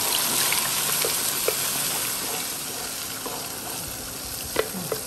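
Freshly blended wet paste of onion and lemongrass sizzling in hot oil in a wok as it is poured in and stirred with a wooden spatula. The sizzle eases slightly as the oil cools under the paste, and the spatula knocks against the pan a couple of times near the end.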